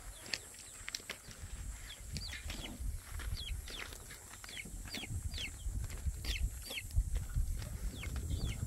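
Repeated short, high chirps from a bird, each sliding down in pitch, two or three a second, over a low rumble.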